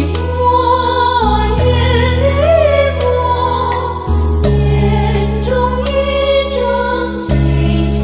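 Buddhist devotional hymn praising Guanyin: a slow sung melody over long held bass chords that change every couple of seconds, with a steady light beat.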